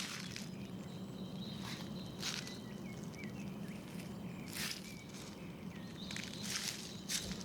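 A walker's footsteps scuffing on a trail, a crunch every second or so at an uneven pace, with faint birdsong behind them and a steady low hum underneath.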